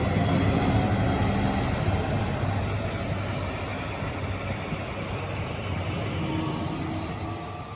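Train running with a steady rumble and rail noise, with a few faint high tones over it; the sound fades away near the end.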